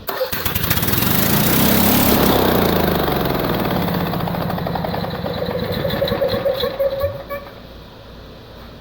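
Two-cylinder small engine with one piston removed starts up and runs on its single cylinder, then stops about seven seconds in.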